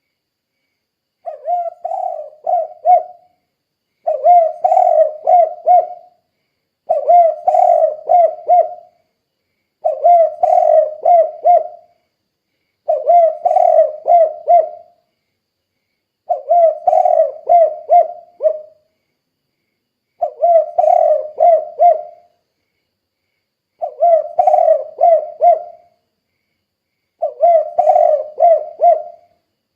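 Spotted dove (tekukur) cooing, repeating the same phrase of several notes nine times, each about two seconds long with a pause of about a second between. This is the 'kuk 2' call type that Indonesian dove keepers value.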